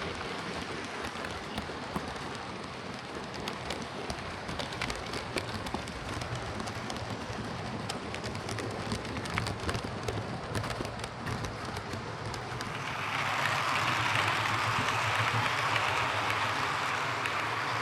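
Bachmann Class 37 OO gauge model locomotive running on the track: a steady motor hum and rolling wheel noise with frequent light clicks. It grows louder and brighter about thirteen seconds in.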